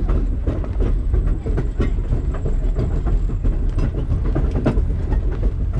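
Passenger train cars rolling along the track, heard from an open-air car: a steady low rumble with irregular clicks and knocks of the wheels over the rail joints.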